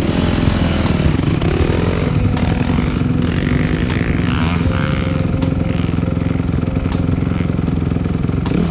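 Dirt bike engine running while being ridden, its revs rising briefly about a second in.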